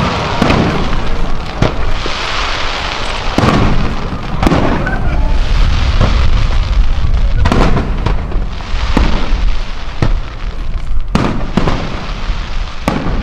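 Fireworks display: aerial shells bursting with repeated sharp bangs every second or two, and a dense crackling hiss between the bangs.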